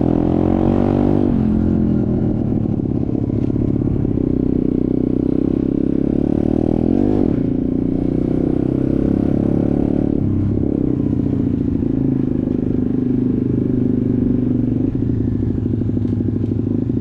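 Off-road motorcycle engine running while riding, its pitch rising and falling with the throttle several times.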